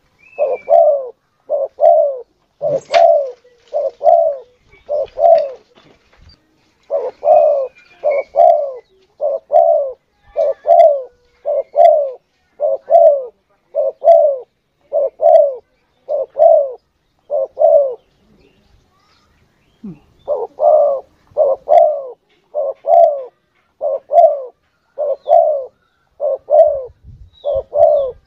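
Spotted dove (tekukur) cooing: a long string of short, evenly spaced coos, about one and a half a second, with a pause of about two seconds past the middle. It is a lure call for drawing doves in. A few faint higher chirps from another bird come through now and then.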